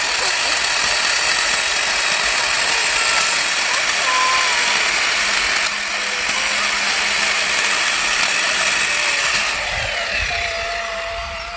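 Electric chainsaw built from an angle grinder with a chainsaw conversion kit, running steadily as it cuts wood; the noise eases off near the end.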